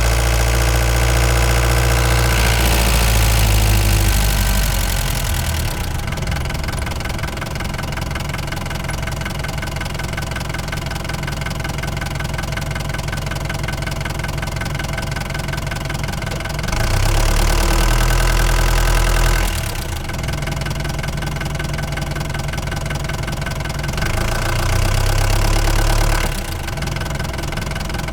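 Ford Transit MK5 van's engine running on the move, pulling louder under throttle for the first few seconds and in two short spells later on, easing back to a steadier, quieter run in between.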